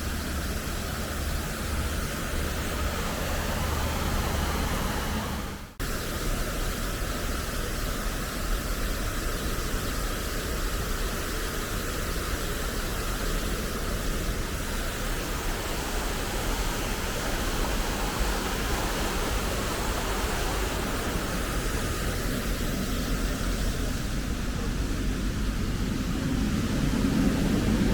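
Steady outdoor city ambience, a constant even hiss of traffic and air. It cuts out abruptly for an instant about six seconds in, and a low rumble builds near the end.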